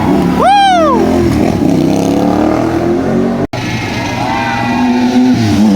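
Motor vehicle engines running steadily, with one short rising-and-falling siren whoop in the first second. About halfway through the sound drops out for an instant, and then the engines continue.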